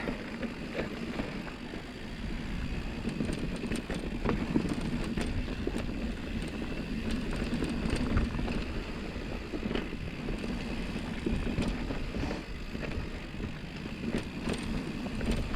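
Mountain bike rolling over a dusty dirt trail: a steady rumble of tyres on loose dirt and wind on the microphone, with scattered light clicks and rattles from the bike.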